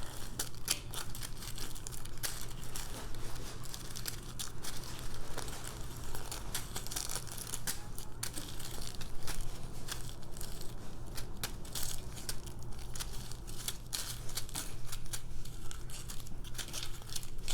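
Plastic packaging crinkling and rustling, with many small irregular clicks and crackles, as small plastic bags of diamond-painting drills are handled and sorted.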